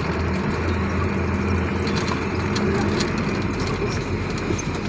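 Steady low hum of a running vehicle engine under a constant haze of noise, with a few faint ticks.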